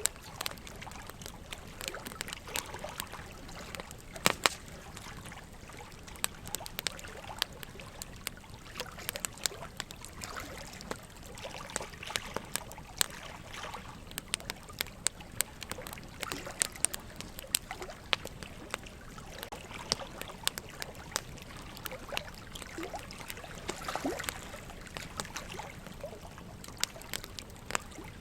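Wood fire crackling, with frequent sharp pops and snaps at irregular intervals, over a steady trickle of running water.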